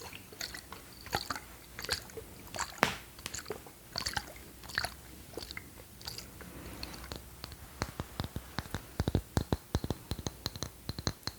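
Close-miked ASMR trigger sounds: scattered sharp clicks and smacks, turning into a quicker run of clicks and taps about eight and a half seconds in.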